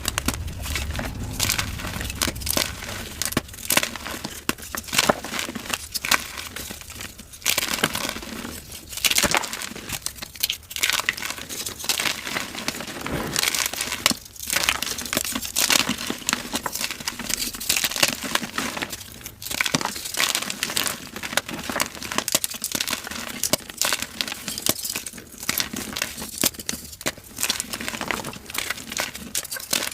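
Dyed gym chalk being crushed and crumbling: a dense run of crisp crunches and crackles, broken by a few brief pauses.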